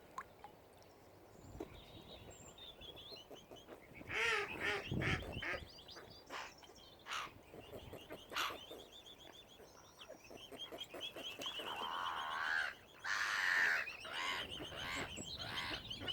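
Waterfowl calling, with a cluster of honking calls about four to five seconds in. Small birds trill high and fast through the later part.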